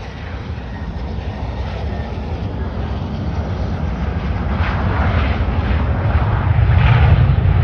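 Military fighter jet's engine noise, a broad rushing sound that grows steadily louder as the jet comes closer and is loudest near the end.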